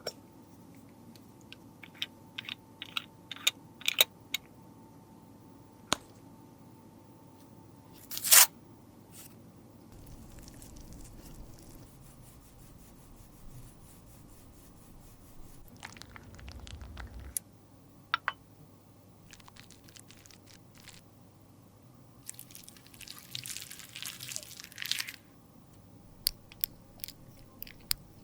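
Close-up handling of makeup products and tools: scattered sharp clicks and taps, a louder clack about eight seconds in, and a crunchy scraping stretch a few seconds before the end.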